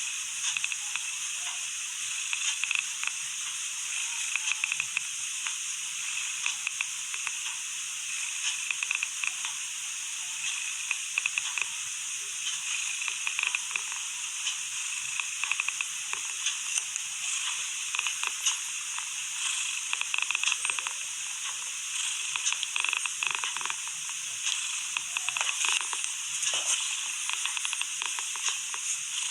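A steady high hiss with scattered small crackles throughout, with nothing heard in the low range.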